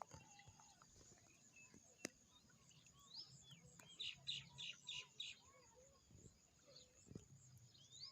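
Songbirds chirping faintly, scattered short calls and whistled glides, with a run of about five quick repeated notes around the middle.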